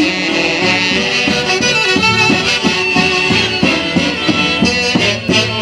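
Andean folk band playing an instrumental passage, sustained melody lines over a steady beat, with no singing.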